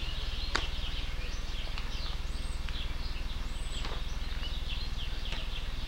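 Outdoor ambience: many small birds chirping over a steady low hum, with one sharp click about half a second in.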